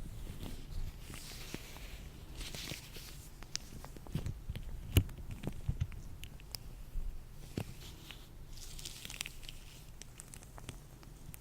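Latex-gloved hands rubbing and crinkling close to the microphone, with scattered small clicks and one sharp click about five seconds in.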